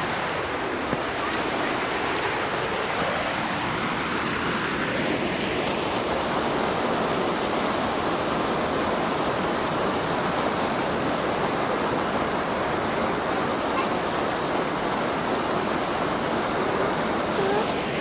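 Heavy rain falling steadily on the plastic sheeting of a vinyl greenhouse, heard from inside as an even, continuous hiss.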